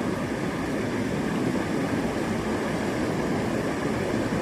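Steady rushing of water pouring over a small overflow weir, an even noise at a constant level.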